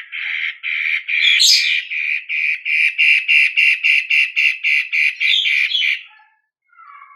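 Long-tailed shrike (cendet) calling in a fast, even series of repeated notes, about three to four a second, breaking off about six seconds in, with a couple of faint notes near the end.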